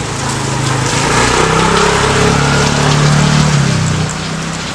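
Steady rain falling, with a small engine's hum that swells about half a second in and drops away near the end, like a motor vehicle passing.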